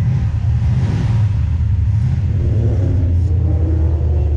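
Car engine running with a steady low rumble; a higher engine note joins in the second half.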